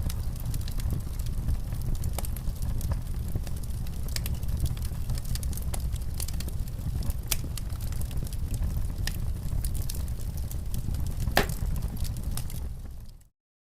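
Wood fire in a fireplace crackling, with frequent sharp pops over a steady low rumble and one louder pop about eleven seconds in. The sound fades out quickly near the end.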